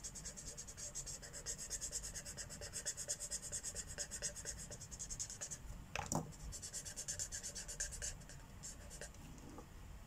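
Marker tip scribbling on paper: colouring in quick, even back-and-forth strokes that thin out toward the end. A single sharp knock about six seconds in.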